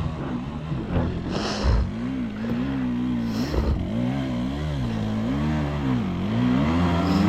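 Dirt bike engine revving up and down over and over, its pitch rising and falling about once a second, then climbing higher and louder near the end.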